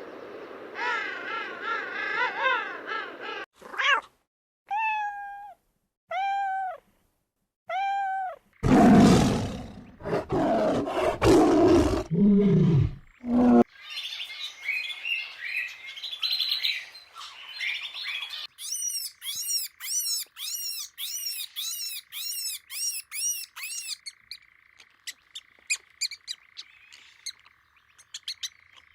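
A string of short animal-call clips: chirping, then four separate falling calls, then a loud, rough roar-like call, then a fast run of repeated chirps.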